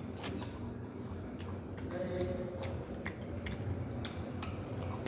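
Close mouth sounds of a person eating: irregular wet clicks and smacks of chewing, a few every second.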